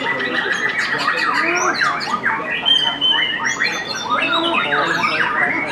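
White-rumped shama (murai batu) singing a fast, varied song of whistles, trills and quick rising and falling notes, without a break.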